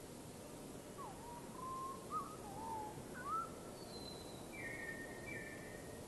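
A bird calling: a run of low, whistled, swooping notes, then a faint high falling note and two short flat higher notes near the end, over a faint steady hiss.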